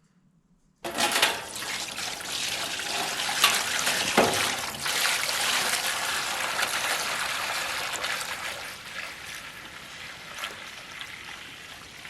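Maple sap being poured into a metal evaporator pan, a steady splashing pour that starts suddenly about a second in and tapers off toward the end.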